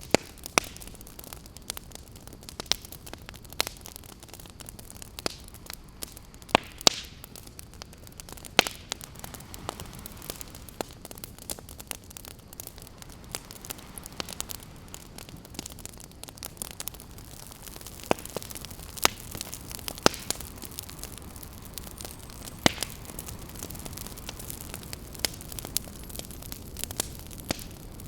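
Wood campfire crackling, with irregular sharp pops and snaps, over a steady wash of ocean surf.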